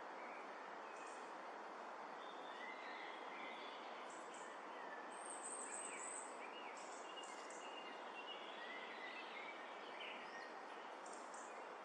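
Several woodland birds chirping and singing over a steady background hiss, with short whistled notes and a few very high thin trills, the clearest about halfway through.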